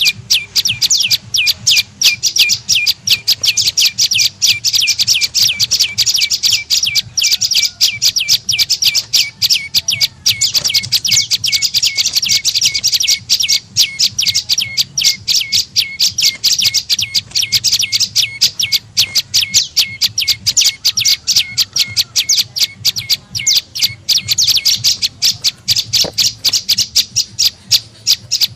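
Prenjak lumut calling in a fast, unbroken run of sharp high chirps, about four or five a second. This is the rapid chatter used as a lure call to draw the bird in.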